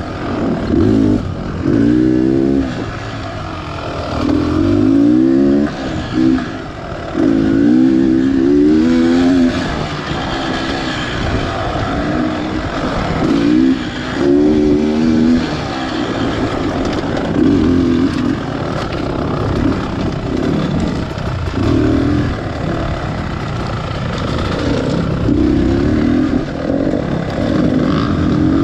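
Beta Xtrainer 300 single-cylinder two-stroke dirt bike engine being ridden, revving in repeated short bursts: the pitch climbs for a second or two as the throttle opens, then drops back as it closes, over and over.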